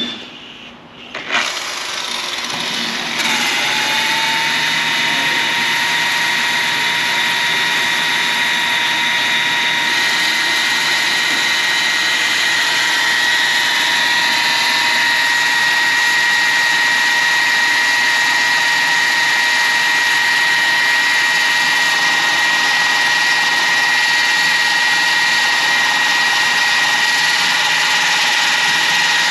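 Power tool spinning up about a second in, rising again about three seconds in, then running at a constant speed with a steady high whine until it winds down at the end.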